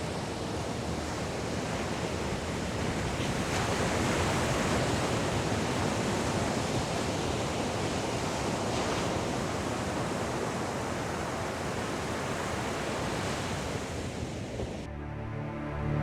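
Ocean surf washing on a beach, a steady rush that swells a little about four seconds in. It cuts off suddenly near the end, where music begins.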